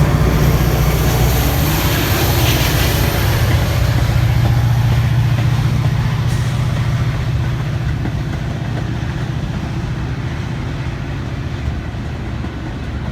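Metra commuter train pulling out of the station, running with a low steady rumble and rail noise that slowly fades as it moves away.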